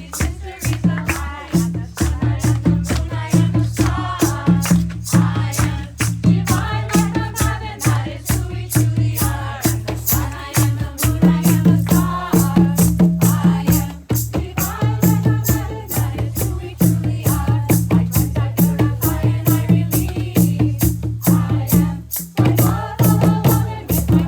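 Ceremonial song: voices singing over a rattle shaken in a steady beat, about three shakes a second.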